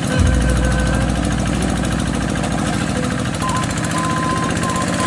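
Tractor engine running steadily with rapid, even firing pulses; a heavier low rumble comes in just after the start.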